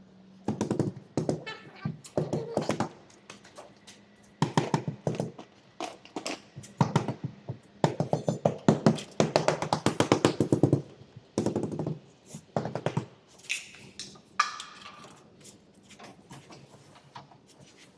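Rapid runs of hammer blows on truck cab sheet metal, several strikes a second, in bursts with short pauses between: panel beating to shape a truck cab panel.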